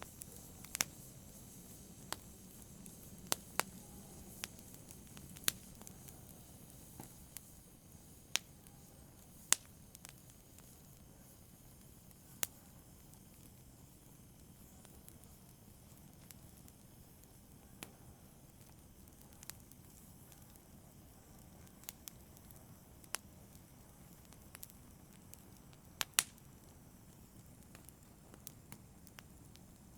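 Wood fire in a fireplace crackling: irregular sharp pops and snaps over a soft low rumble, a couple of louder pops near the end.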